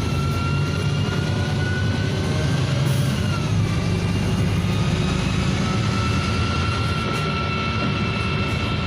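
NefAZ 5299 city bus under way, heard from inside: its Cummins ISBe diesel and Voith automatic drivetrain run with a steady low rumble. A thin whine rises slowly, drops about three seconds in, then holds level.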